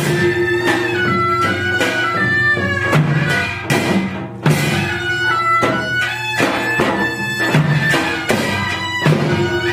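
Korean traditional music for the Jindo drum dance: held, sliding wind and bowed-string melody lines over repeated drum strokes.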